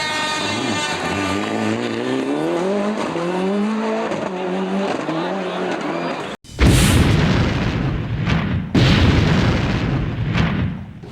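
Rally car engines. First an engine holds a steady note, then rises and falls in pitch as it revs. After an abrupt cut, a rally car is much louder at full throttle, and a second cut brings another loud, full-throttle run.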